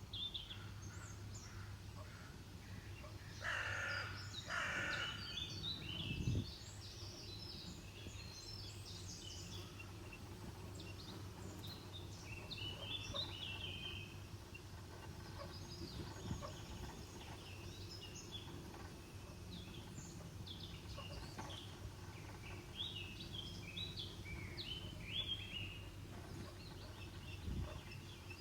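Birds calling: two louder harsh calls about three and a half and five seconds in, then scattered high chirps and short runs of notes, over a steady low hum.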